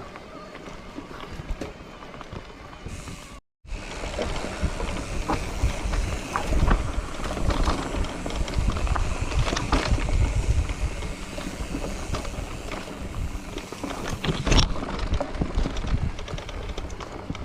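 Bicycle ridden over a rough trail: a steady rumble from the tyres and wind on the microphone, with scattered clicks and rattles. The sound cuts out for a moment about three and a half seconds in, and it is louder after that.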